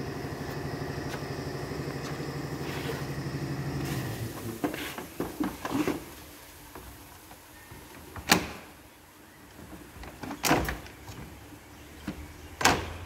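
A vehicle engine idling with an even pulse, then shutting off about four seconds in. After it stops come several short knocks and three sharp, loud clunks spread over the rest of the stretch.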